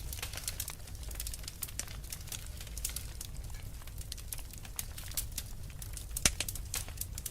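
Wood fire burning in a fireplace: logs crackling with frequent sharp pops over a low steady rumble of the flames, one louder pop about six seconds in.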